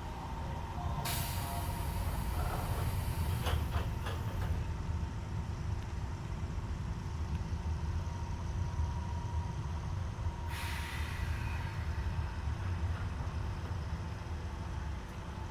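Inside a Keisei 3400-series electric train car: a steady low rumble with a thin steady tone, and two long bursts of air hiss, the first about a second in and the second about two-thirds of the way through.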